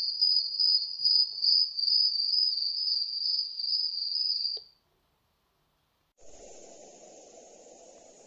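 Pocket white noise machine (Dreamegg Pocket Sleep 1) playing a cricket-chirping soundscape with a fast pulsing trill. It cuts off sharply about four and a half seconds in. After a second and a half of silence, a steady noise sound starts, as the machine switches to its next sound.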